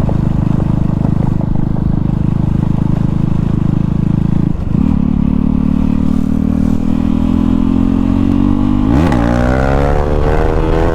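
KTM Duke 390 single-cylinder engine running loud with no exhaust silencer while riding. The note holds steady, drops briefly about halfway through as it shifts gear, then climbs slowly. It shifts again near the end and the revs rise quickly.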